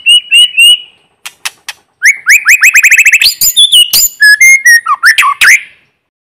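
White-rumped shama singing. A phrase of short rising whistles gives way to a few sharp clicks, then a fast run of about eight rising notes a second, and then varied whistled notes.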